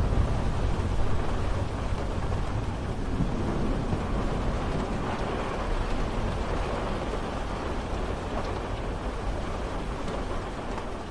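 Steady rain falling, with a low thunder rumble dying away in the first second; the rain grows gradually quieter toward the end.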